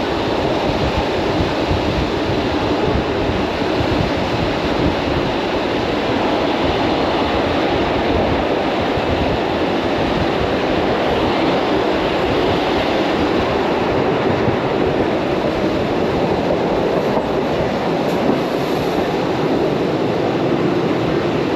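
Suburban electric multiple-unit train running at speed, heard from inside the carriage: a steady rumble and rush of wheels on rails.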